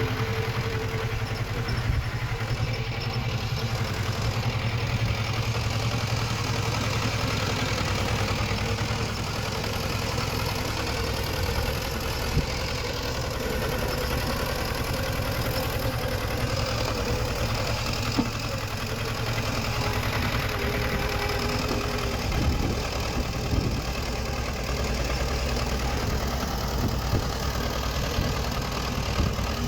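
Diesel engine of heavy earthmoving machinery running steadily, with a few short knocks or clanks in the second half.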